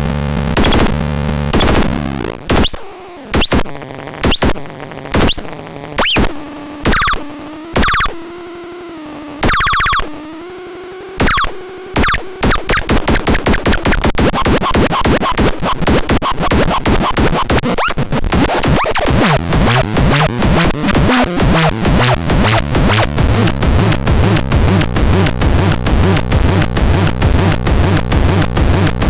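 Experimental rhythmic synthesizer sounds: sparse noisy bursts with short pitched and sliding tones, changing about twelve seconds in to a fast, dense, steadily repeating pulse pattern.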